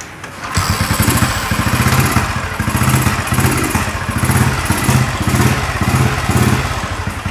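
Old Royal Enfield Bullet's cast-iron single-cylinder four-stroke engine starting about half a second in, then running with an even low thumping beat that swells and eases.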